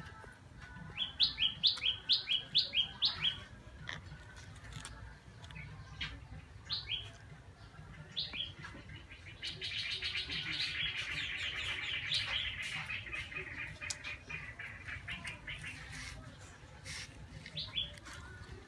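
Small birds chirping: a quick run of about seven high chirps a second or so in, a few single chirps after, and a long rapid high trill from about ten to sixteen seconds in.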